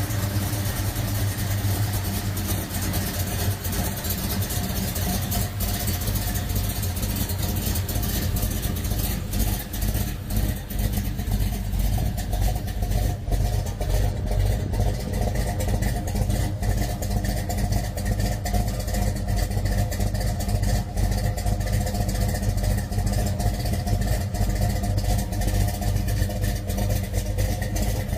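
A muscle car's engine running steadily at low revs, a deep, even rumble with a fast pulse.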